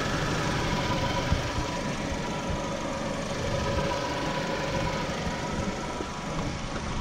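A 2016 Honda HR-V's four-cylinder engine idling steadily with the hood open, with a steady whine over the low running sound.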